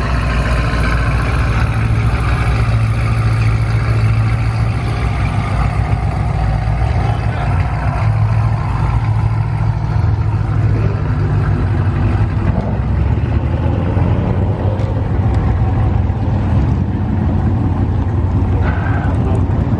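A street-race car's engine running with a loud, steady low rumble.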